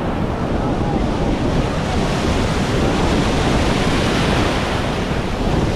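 Sea surf washing in, with wind buffeting the microphone.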